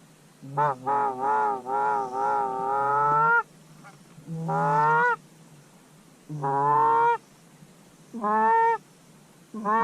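Canada goose honking: a quick run of calls over about three seconds, then four single honks spaced about two seconds apart.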